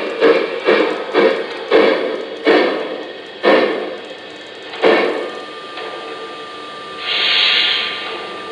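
Lionel Legacy O-scale PRR B6sb 0-6-0 steam locomotive's onboard sound system: steam chuffs coming further and further apart and dying away as the locomotive slows to a stop, then a short hiss of steam about seven seconds in.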